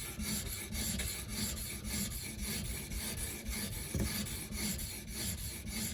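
Edge Pro 220-grit sharpening stone stroked back and forth along the 154CM steel edge of a Benchmade Nim Cub, a steady rasping scrape at about two strokes a second. It is working one side of the bevel until a burr forms.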